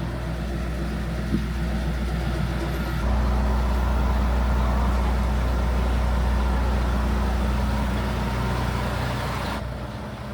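A motor vehicle running steadily, a low engine hum under travel noise, heard from on board. The sound steps louder about three seconds in and turns duller near the end.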